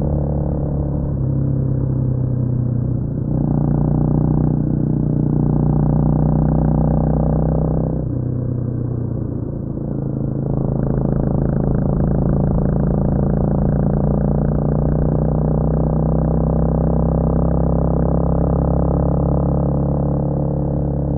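Honda CMX250 Rebel motorcycle engine running under way, a steady pitched engine note that shifts up and down in pitch a few times, with a dip in level about three seconds in and again around eight to ten seconds in.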